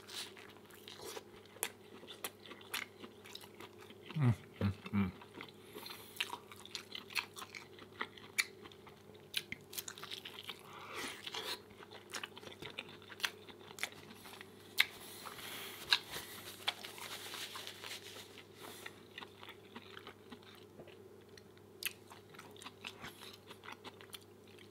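Close-miked chewing of a man eating: a long string of small mouth clicks and smacks as he chews and bites.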